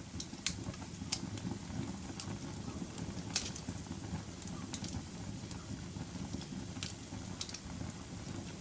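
Wood fire burning in a fireplace: a steady low rumble of flames with irregular sharp crackles and pops, the loudest pop about three and a half seconds in.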